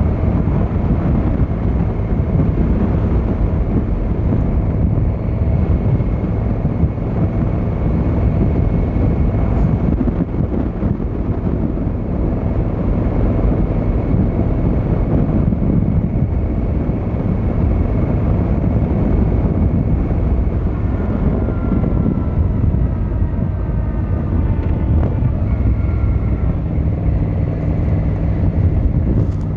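Yamaha XVZ1300 Royal Star's V4 engine and exhaust running steadily while riding, with wind noise on the microphone.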